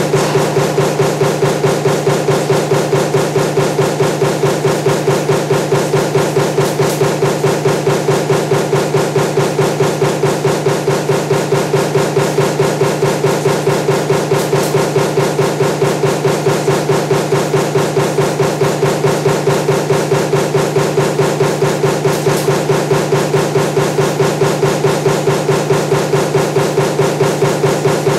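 Mechanical power press stamping table fan motor laminations with a die: a fast, even run of repeated strokes, a few per second, over the press's steady hum.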